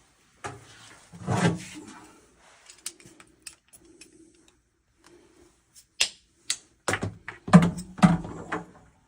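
Irregular clicks, knocks and rustling from handling PEX pipe and hand tools, with a rustle about a second in and a cluster of louder knocks and clicks near the end.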